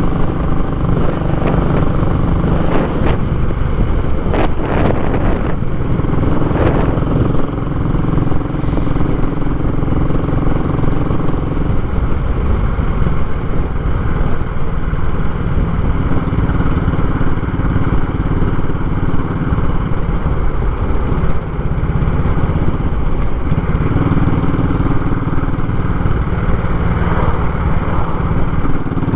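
Royal Enfield Classic 500's single-cylinder engine running through a short, unbaffled muffler during a ride, giving a loud, raw exhaust note. The note holds steady with a few shifts in pitch, and there are some brief clattering knocks in the first few seconds.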